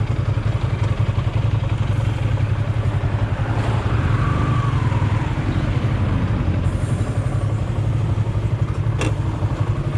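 A small engine running steadily at idle, a constant low pulsing rumble, with a single sharp click about nine seconds in.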